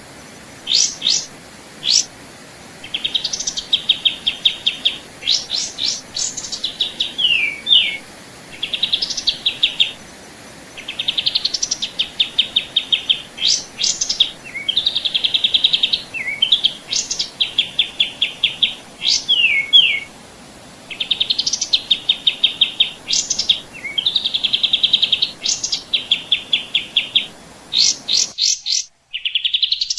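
A songbird singing the same phrase over and over, a few sharp high notes followed by a fast trill, every two or three seconds over a faint steady hiss. Near the end the background hiss drops out abruptly while the singing goes on.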